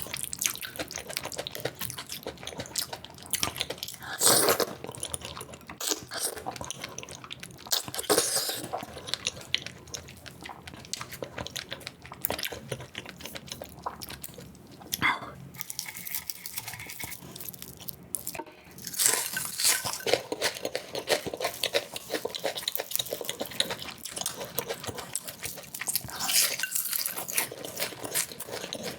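Close-miked eating sounds played sped up: rapid wet chewing and smacking, with louder crunching or slurping bursts every few seconds.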